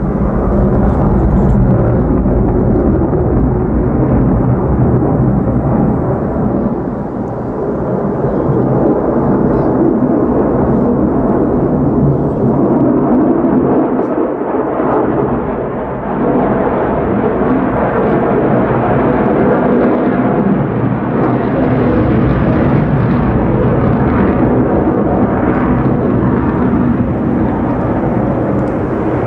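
F-35A Lightning II fighter's single afterburning Pratt & Whitney F135 jet engine during a flying display pass: loud, continuous jet noise, mostly low-pitched, that dips briefly twice.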